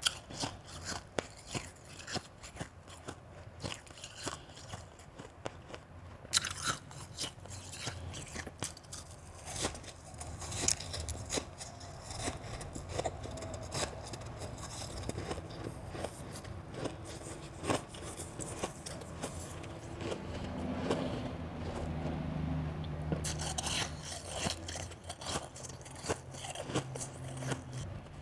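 A person biting and chewing mouthfuls of crunchy ice close to the microphone: a steady run of many sharp crunches and crackles.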